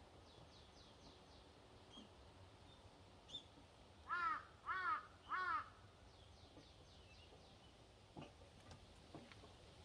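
A crow cawing three times in quick succession, each caw a short hoarse arched call, with small birds chirping faintly before and after.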